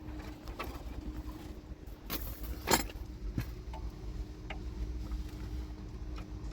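A few sharp knocks and clinks, the loudest just under three seconds in, over a steady low rumble with a faint hum.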